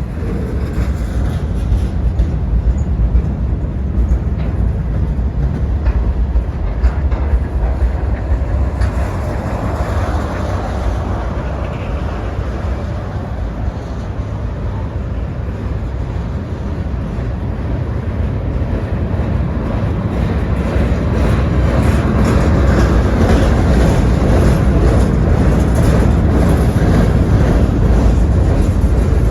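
Freight train rolling past, a continuous low rumble of wheels on rail that grows louder in the last third.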